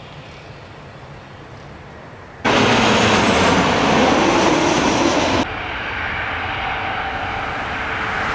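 Jet airliner engine noise in three edited snippets. A fainter, steady rush runs for about two and a half seconds, then cuts suddenly to much louder close-up jet noise for about three seconds, then drops abruptly to a moderate steady engine rush.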